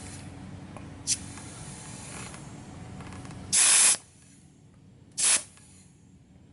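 Compressed air hissing in short bursts at a motorcycle tire valve from an air compressor's inflator chuck: a faint puff about a second in, a loud half-second hiss about three and a half seconds in, and another short hiss near five seconds. A steady low hum runs underneath and stops at the loud hiss.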